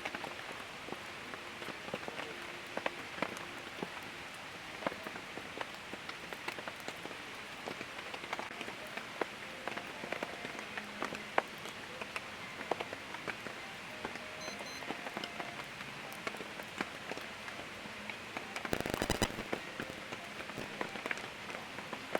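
Heavy rain falling, a steady hiss with many separate drops ticking sharply close by. Near the end there is a brief, louder noisy burst lasting under a second.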